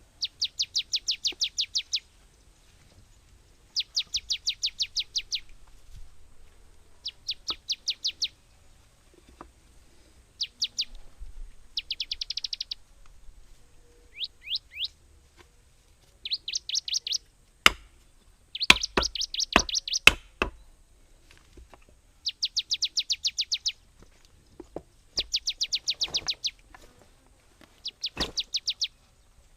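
A bird singing the same fast, high chirping phrase over and over, about ten quick notes in a second and a half, repeated every two to three seconds. A handful of sharp knocks come in the middle and are the loudest sounds.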